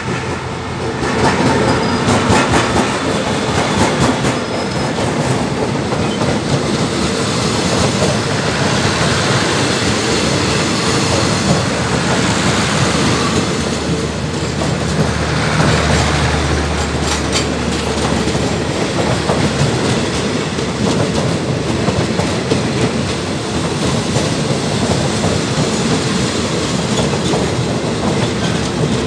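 CRRC CDA5B1 (QSY) diesel-electric locomotive running past close by, followed by its passenger coaches rolling by. A continuous loud rumble runs throughout, with many sharp clicks from the wheels passing over the rail joints.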